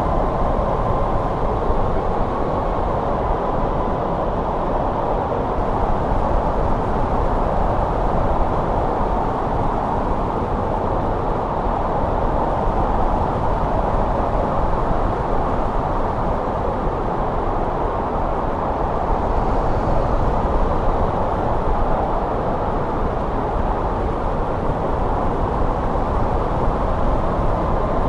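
Steady winter wind blowing, an even rushing noise with a deep rumble and no gusts or breaks.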